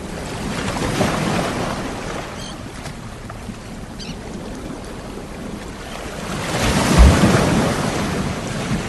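Ocean waves breaking on a shore: a steady wash of surf that swells twice, a smaller wave about a second in and a louder one crashing about seven seconds in.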